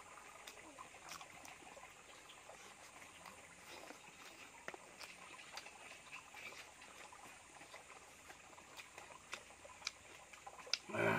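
A person chewing and smacking his lips while eating curry and rice by hand, heard as many small scattered mouth clicks over a faint hiss. A short vocal sound comes just before the end.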